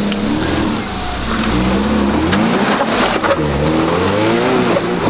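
First-generation Subaru Forester's flat-four boxer engine revving up and down again and again as the car crawls through deep ruts on a dirt trail, with a few sharp knocks about halfway through.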